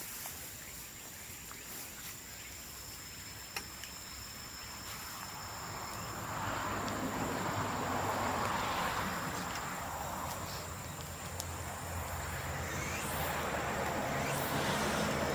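A bamboo bonfire burning, with scattered sharp crackles and pops. About six seconds in, a broad rushing noise with a low hum swells up and stays louder.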